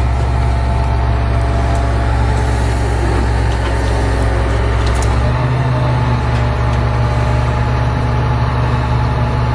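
Engine running steadily as a deep, loud drone, its note shifting about five seconds in.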